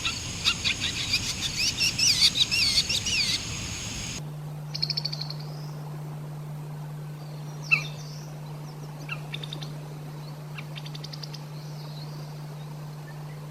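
Songbird singing a fast, dense run of sharp notes and warbling whistles, which stops abruptly about four seconds in. After it come scattered short chirps and brief trills over a steady low hum.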